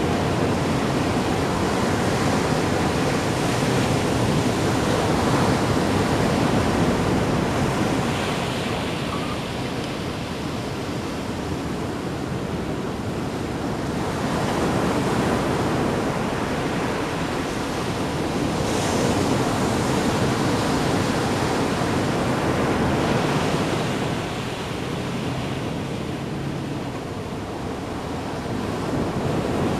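Ocean waves breaking and washing in, a continuous rushing that swells and eases every several seconds.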